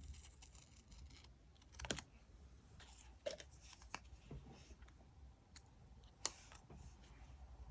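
Faint handling of paper and stationery: a few scattered light clicks and taps with soft paper rustle between them, the most distinct about two seconds in.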